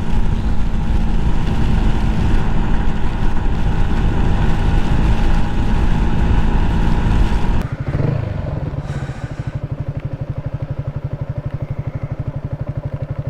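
Yamaha 125 cc single-cylinder motorcycle engine running on the move. About eight seconds in, the revs fall away and it settles to an idle with a quick, even pulse.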